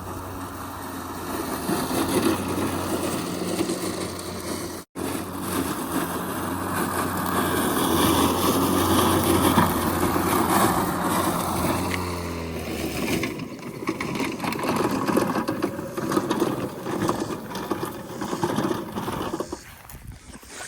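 Mowrator S1 battery-powered remote-controlled mower running with a steady motor hum, which dies away about two-thirds of the way through.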